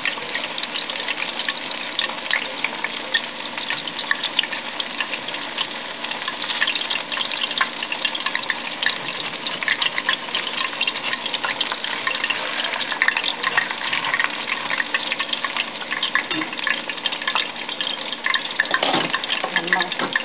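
Shrimp-and-batter pancakes deep-frying in hot oil: a steady, dense sizzle with many small pops and crackles.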